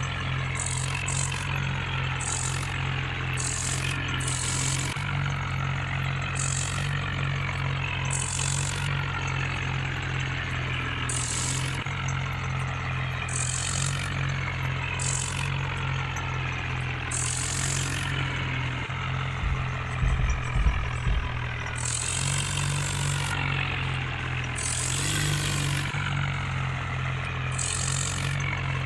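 Tractor diesel engine running steadily, with repeated short bursts of hiss and a few low bumps about two-thirds of the way through.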